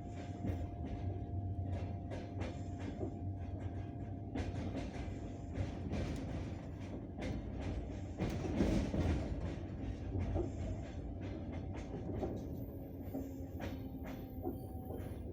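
Passenger train's wheels clacking irregularly over rail joints, the clacks thickest about halfway through, over a steady rumble and the thin whine of the singing rails. The whine slowly falls in pitch as the train slows on its approach to a stop.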